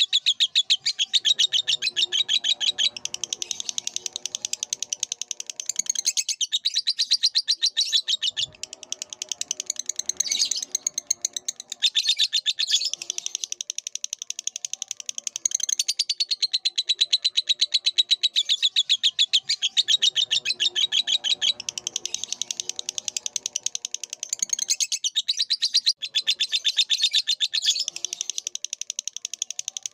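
Lovebird singing a long, unbroken, rapid high-pitched chattering trill, with a lower chattering layer coming and going in several stretches.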